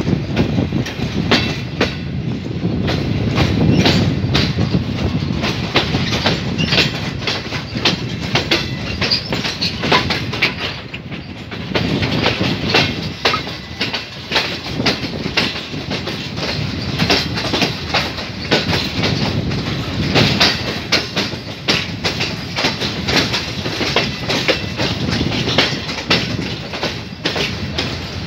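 Passenger train wheels clattering steadily over the rails as the train runs through a junction, heard from a coach window, with dense rapid clicks over a continuous rumble. From about twelve seconds in the clatter turns brighter and sharper as the coach runs close beside a line of goods hopper wagons.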